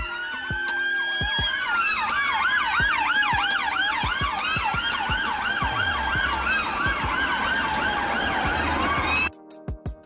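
Several police sirens sounding together: slow wails rising and falling over a fast repeating yelp. They cut off suddenly near the end.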